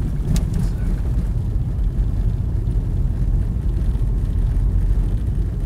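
Steady low rumble of a vehicle driving, its engine and tyre noise heard from inside the cabin. A brief click comes about half a second in.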